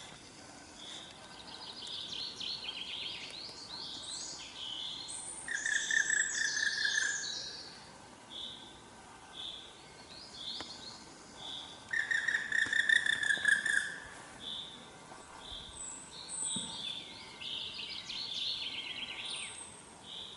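Songbirds singing in a forest. One bird repeats a short high note about every two-thirds of a second, while others give longer warbling songs with trills, loudest about six seconds in and again around thirteen seconds.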